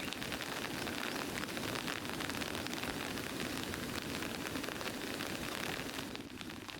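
Heavy rain falling: a dense, steady hiss of rain with many separate drops ticking through it. It eases a little near the end.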